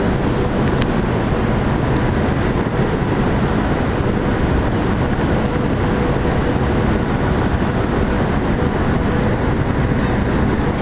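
Chinese high-speed train running into the platform, a steady loud rushing noise with a faint hum.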